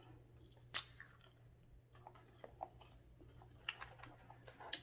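A person chewing food close to the microphone, with a sharp click a little under a second in and several soft wet clicks toward the end.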